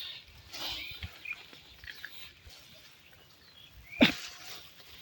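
Rural outdoor ambience with faint, scattered short bird chirps. One brief, loud sudden sound comes about four seconds in.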